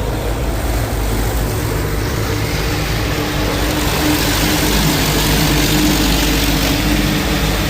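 Istobal M'Wash 3's high-pressure water jets spraying against the car's body, heard from inside the cabin, over a steady low hum. The spray grows louder and hissier about three and a half seconds in, as the jets pass closer.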